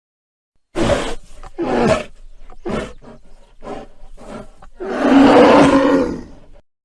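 Bear growling and roaring. It starts with three short loud bursts about a second apart, then several weaker short growls, and ends with one long, loud growl lasting about a second and a half.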